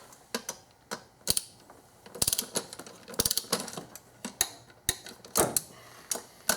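Hand ratchet wrench clicking in short bursts of rapid clicks, run back and forth while tightening an intake manifold bolt on a VQ35DE V6 in its torque sequence.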